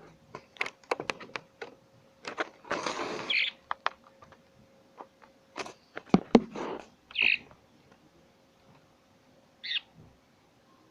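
Pet birds giving a few short chirps, three in all, among many sharp clicks and taps and two brief bursts of rustling.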